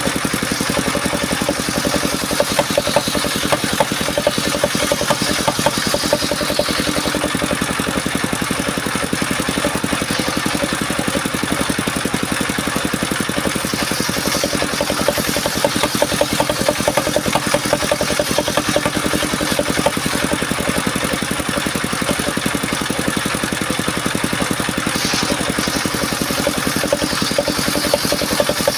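Engine of a mobile circular-saw sawmill running steadily, with a brighter hiss that swells and fades a few times.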